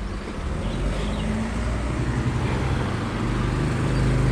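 Street traffic: a motor vehicle's engine running close by over a steady wash of road noise, growing a little louder near the end.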